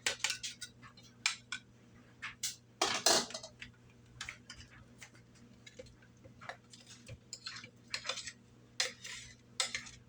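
Kitchen utensils and dishes being handled: irregular clinks and knocks, with one longer, louder scrape or clatter about three seconds in.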